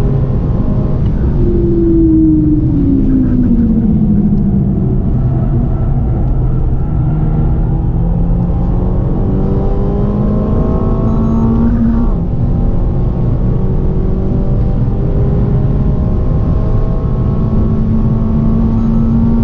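Renault Mégane 4 RS 280's turbocharged 1.8-litre four-cylinder engine heard from inside the cabin at track pace. The engine note falls as the car slows a couple of seconds in, then climbs steadily under hard acceleration, breaks for an upshift about twelve seconds in, and climbs again.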